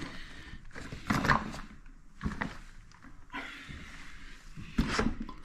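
A few separate knocks and scrapes from toilet tank parts being handled, the loudest about a second in and near the end.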